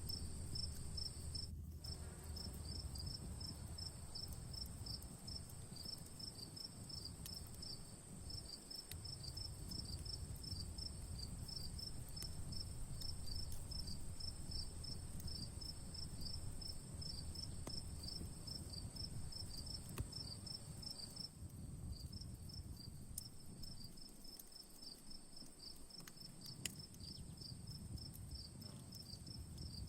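Crickets chirping in a fast, steady pulsing trill over a continuous high insect drone, with scattered sharp crackles from a campfire burning. The trill drops out briefly about a second and a half in and again around two-thirds of the way through.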